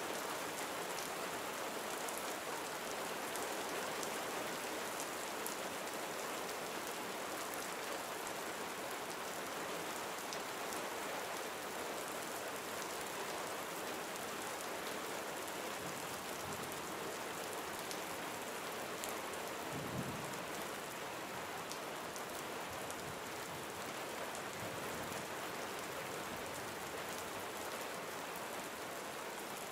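Steady gentle rain falling, with many small drop ticks over an even hiss. A brief low thump comes about two-thirds of the way through.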